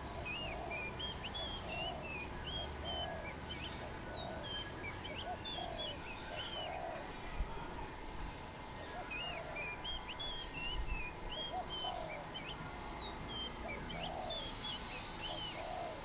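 Wild birds calling: a regular run of short low notes, about three every two seconds, with bouts of higher twittering chirps over them. A brief hiss comes near the end.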